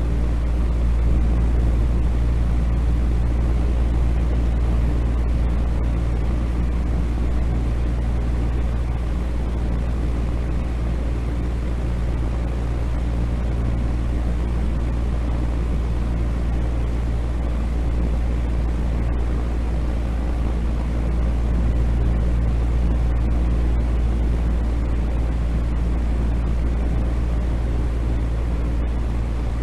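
Continuous noise track played for sleep, steady and unchanging, with most of its weight in a deep rumble and a low steady hum underneath rather than an even hiss.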